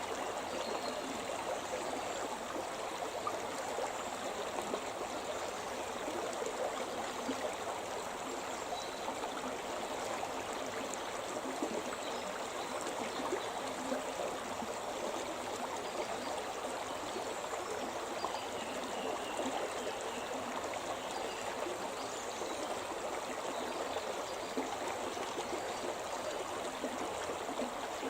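The Shimna River's water running steadily: an even, unbroken rush.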